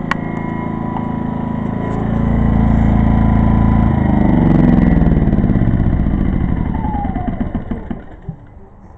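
Pulsar 2300-watt inverter generator's engine running hard under the load of two microwaves. It speeds up and gets louder about two seconds in, then slows with falling pitch and winds down near the end.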